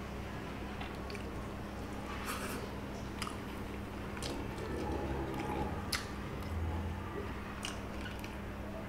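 A man eating rice and small fish by hand: soft wet chewing and squishing of food, with a few sharp clicks scattered through, over a faint steady hum.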